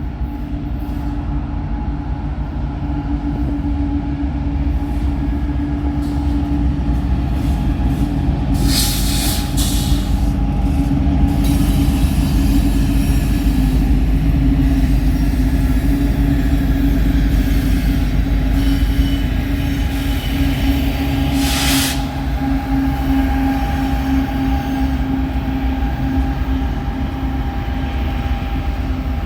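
A train running on the line, with a steady low rumble and a few held engine tones. Two short, high, harsh bursts cut through, about nine seconds in and again about twenty-two seconds in.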